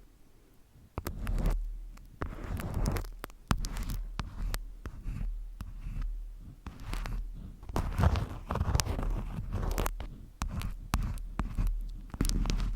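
Close-miked ASMR handling sounds: after about a second of quiet, a busy run of sharp taps and clicks mixed with crackly, scraping swells, over a steady low hum.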